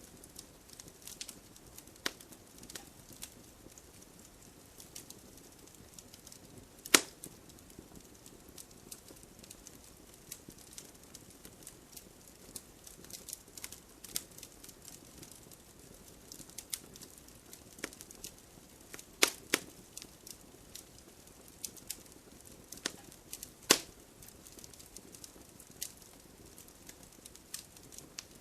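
Wood fire crackling: a steady run of small sharp pops and snaps from burning logs, with a few louder pops, two of them close together a little past the middle.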